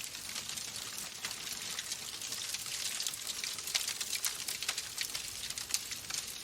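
Wood fire in a fireplace crackling: a steady hiss with many small, irregular pops and snaps.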